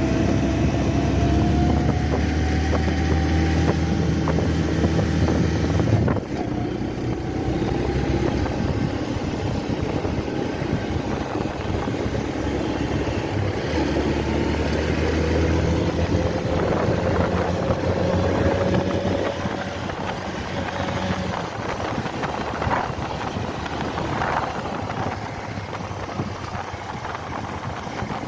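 Bajaj motorcycle's single-cylinder engine running under way, heard from the rider's seat. Its pitch climbs slowly as the bike gathers speed, with a sudden break in the sound about six seconds in.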